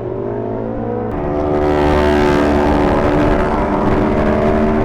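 Sport motorcycle engine under way, its note climbing gently, then stepping up and getting louder about a second in before holding a steady cruise, with wind and road noise.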